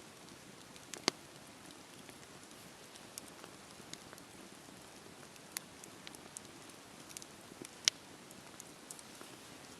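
Wood fire crackling: a low steady hiss with irregular sharp pops and snaps, two louder pops about a second in and near the end.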